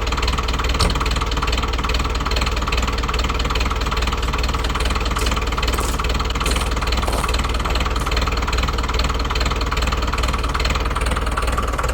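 Lovol 504 tractor's diesel engine idling steadily just after a cold start in freezing weather, first run in about three weeks.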